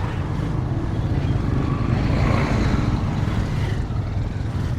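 A motor vehicle's engine running steadily, with a continuous low rumble and road or wind noise.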